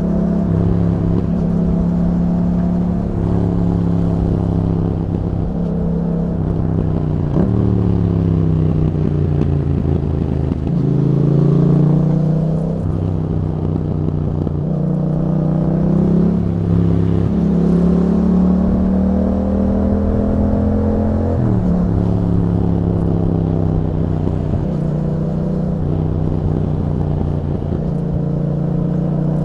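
2021 Yamaha MT-07's parallel-twin engine through an Akrapovič exhaust under way, its pitch rising and falling over and over as the bike accelerates and rolls off, with a few sudden drops in pitch.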